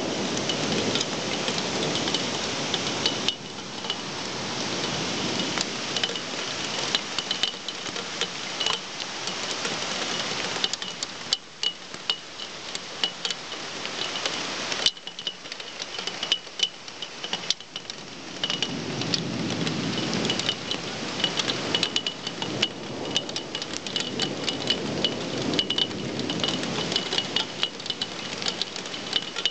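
Heavy storm rain pouring down, a dense hiss full of sharp drip and splash ticks. Low rumbles of thunder swell at the start and again about two-thirds of the way through.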